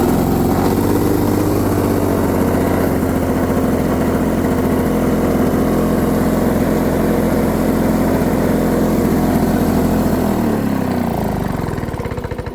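Lawn-Boy 7268 push mower's two-stroke engine running steadily on its first cold start after a carburettor cleaning, then winding down in pitch and stopping near the end.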